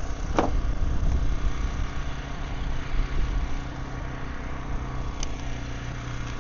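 An engine running steadily with a low rumble, with two short sharp knocks, one about half a second in and one near the end.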